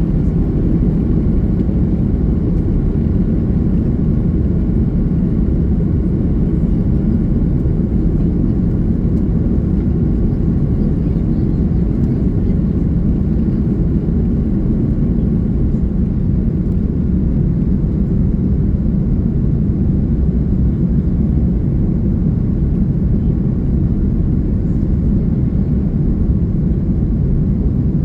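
Airbus A330-300 jet airliner heard from inside the passenger cabin: a steady, loud, deep engine and airflow noise that holds an even level.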